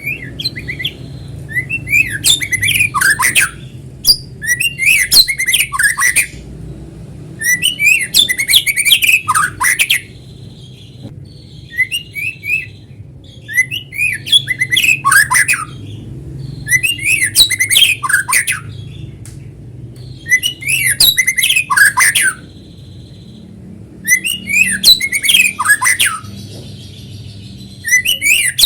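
White-rumped shama singing vigorously: phrases of rapid whistles, slurred notes and harsh chatter, each about two seconds long and repeated every two to three seconds. A faint steady high tone sits between the phrases, over a low hum.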